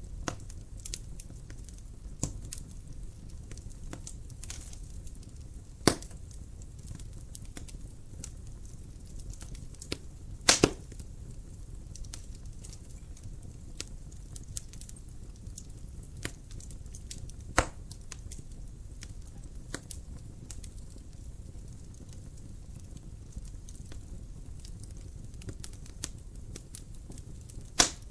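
Wood fire crackling in a fireplace: a low steady rumble of the flames with scattered small crackles and a few sharp, loud pops, two of them close together about ten seconds in.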